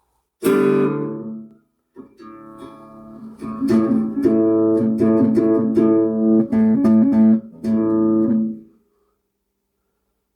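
Guitar played through a Peavey UltraVerb digital effects unit under test: a strummed chord, then picked notes and strums that cut off near the end. It comes through dry, with no reverb or other effect: the unit's effects section is still not working.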